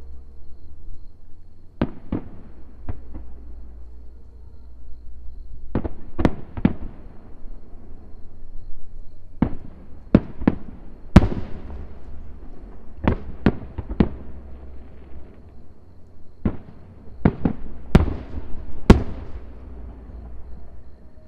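Aerial firework shells bursting: an irregular series of about twenty sharp bangs, some in quick pairs and triples, each trailing off in a crackle. Two of the loudest come near the end. A low steady rumble runs underneath.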